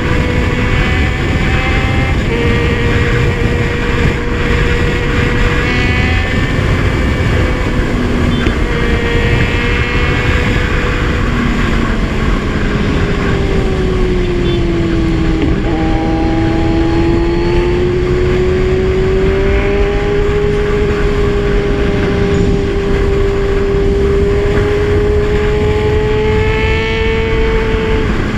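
Kawasaki Z1000 inline-four engine running on the move. Its pitch shifts in short steps through the first half, dips in the middle, then rises slowly and holds, over a steady low rush of road and wind noise.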